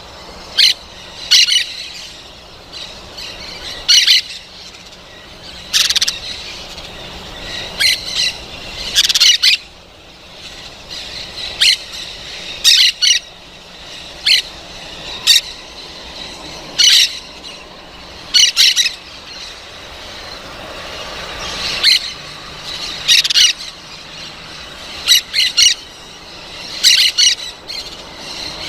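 Parrots calling: short, loud, high calls repeated every second or two, some in quick pairs, over a steady background hum.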